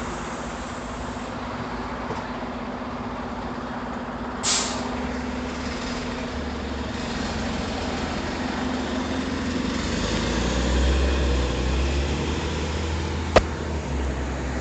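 Scania CN94UB OmniCity city bus running, with a short hiss of released air from its air brakes about four and a half seconds in. The low engine rumble grows louder from around ten seconds in, and there is a single sharp click near the end.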